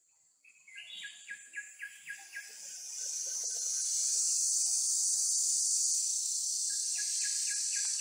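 A bird gives a quick run of about six falling chirps, roughly four a second, and another short run near the end. A loud, steady, high-pitched insect drone swells in about three seconds in and dominates.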